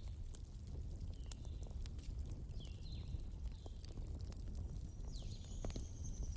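A wood-log bonfire burning, with scattered sharp pops and crackles over a steady low rumble. A few faint high whistling chirps come and go.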